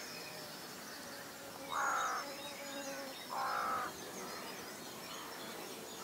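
Two short bird calls, each about half a second long and about a second and a half apart, over faint high birdsong in the background.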